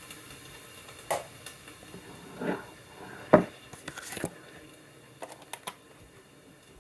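Light kitchen clatter: scattered knocks and clicks of cookware and utensils. The loudest knock comes about halfway in, followed by a few small quick clicks.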